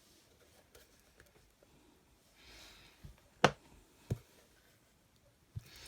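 Craft stamps and tools handled on a desk: a brief rustle, then a sharp click about three and a half seconds in, followed by a softer knock and a small tap.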